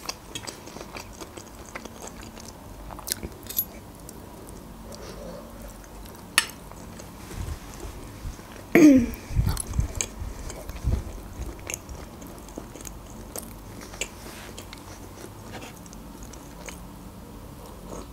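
Close-miked chewing and biting of fried beef heart and liver, with soft wet mouth sounds and a few sharp clicks of a fork. About nine seconds in there is a brief louder sound from the mouth with a falling pitch.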